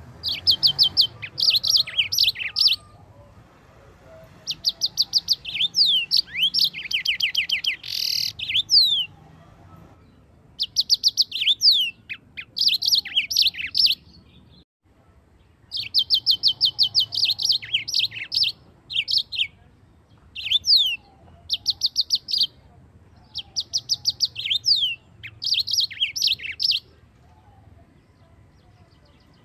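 Yellow-fronted canary (Mozambique finch) singing: bursts of rapid, high, repeated notes mixed with downslurred whistles, one phrase after another with short pauses, including a longer break about halfway through.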